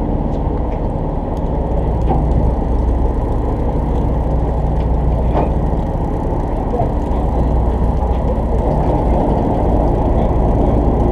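Fishing boat's engine running steadily, a constant low drone with hull and water noise over it.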